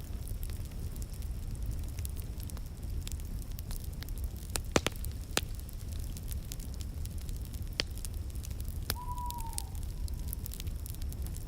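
Wood fire crackling in a fireplace over a low steady rumble, with a few sharp pops around five seconds in and again near eight seconds. About nine seconds in comes a brief whistle that falls in pitch.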